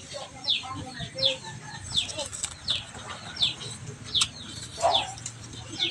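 A bird calling a short, high, falling note over and over, about one and a half calls a second.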